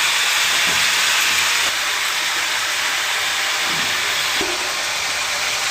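Chicken curry sizzling in a hot pan, a steady loud hiss.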